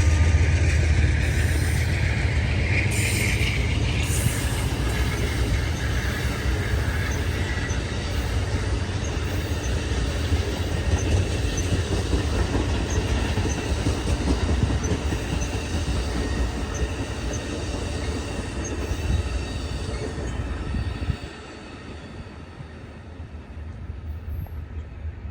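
Train passing on the rails: a deep diesel locomotive rumble and rolling cars, with faint short wheel squeals. The noise drops suddenly near the end.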